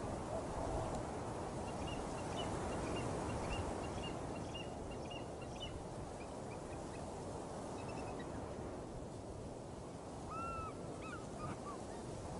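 Steady rushing background noise with faint high bird chirps: a quick run of short chirps a couple of seconds in, and a few short arched calls near the end.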